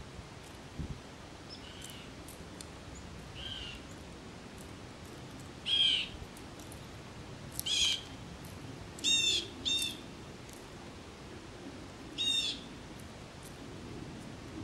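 A handful of short, high bird calls from an unidentified bird, each well under half a second. The first two are faint, then they come louder from about six seconds in, with two in quick succession near the middle.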